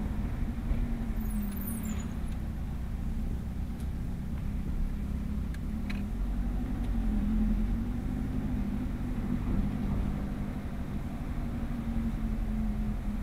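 Ferrari F430's V8 engine running steadily while the car is driven slowly, heard from inside the open-top cabin with road rumble underneath. Its note swells a little about halfway through.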